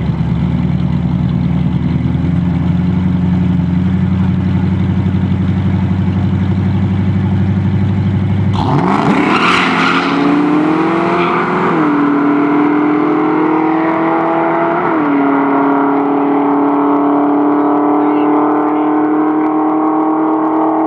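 Muscle car engines held steady at the start line, then a loud burst as they launch and accelerate hard. The engine pitch climbs and drops twice at the upshifts, then holds steady as the cars run on.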